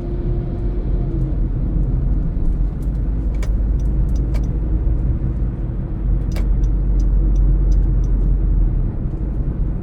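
Steady low rumble of a car driving, engine and road noise together, with a few light clicks in the middle and a run of faint ticks near the end.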